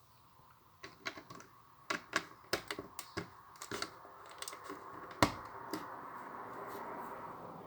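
Small plastic Lego pieces clicking irregularly as they are handled, with one sharper click a little past the middle and a soft rustling hiss in the second half.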